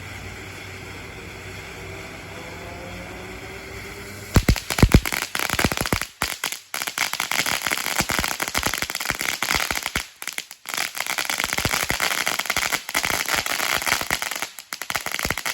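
Consumer firework going off: a steady hiss for about four seconds, then a few loud bangs and dense rapid crackling that keeps on, breaking off briefly a few times.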